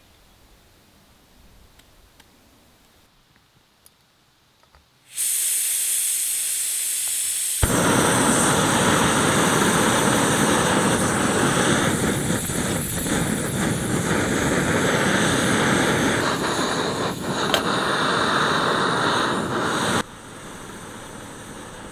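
Backpacking gas canister stove: gas hisses from the opened valve for a couple of seconds, then the burner catches suddenly and burns with a loud, steady rushing sound. The sound drops abruptly near the end to a quieter steady noise.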